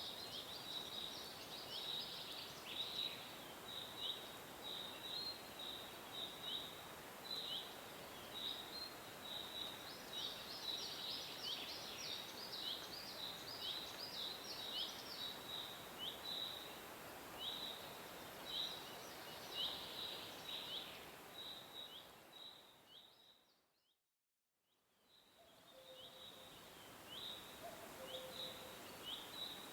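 Small birds chirping: a dense run of short, quick chirps over a steady outdoor hiss. About three-quarters of the way in, the sound fades out to silence for a moment and then fades back in.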